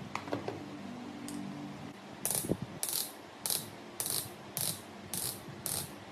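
A hand tool worked in a steady rhythm on metal: about seven short rasping strokes, a little under two a second, starting about two seconds in, after a few light clicks.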